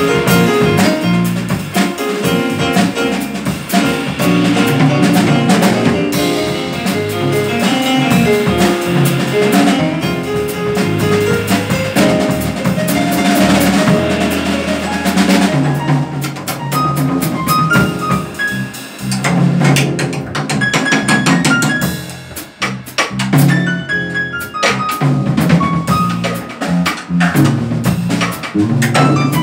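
A band of saxophone, piano, bass and drum kit playing, with the drums prominent. The playing thins out briefly a little past the middle.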